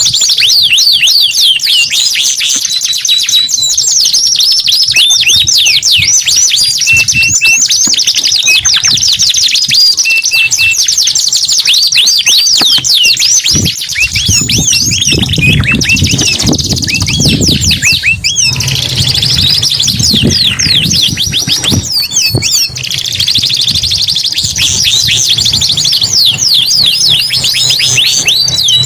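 Domestic canaries in full song, a continuous run of fast trills and rolls of quickly rising and falling notes. A low rumble sits under the song about halfway through.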